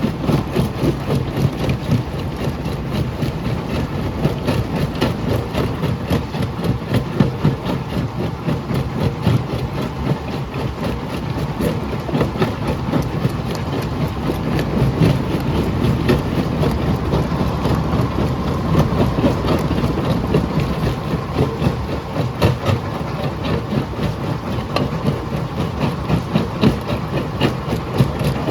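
Jaw crusher running steadily while crushing stone: a heavy, constant drone with a continuous clatter of cracking and knocking rock.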